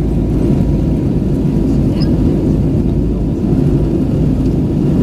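Steady low rumble of engine and airflow noise heard inside an Airbus A320 cabin in flight, with a faint steady whine above it.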